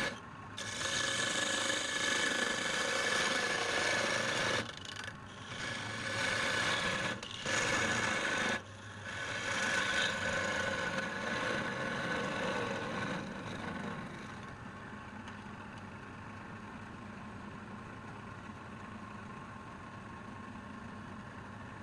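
Spinning wood on a wood lathe being worked with a tool or abrasive, a harsh rasping sound broken by short pauses. From about fourteen seconds in, only the lathe's motor hum goes on steadily.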